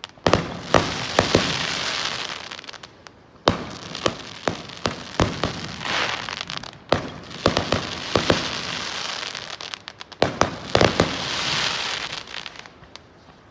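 Fireworks going off: a rapid, uneven series of sharp bangs and pops, with stretches of dense crackling hiss between them. The loudest bangs come near the start, about three and a half seconds in, and about ten seconds in.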